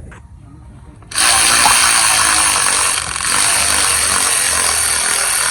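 A handheld power tool running steadily for about five seconds, starting suddenly about a second in, with a brief dip in the middle, while bolts are worked on the engine during an ignition coil and spark plug job.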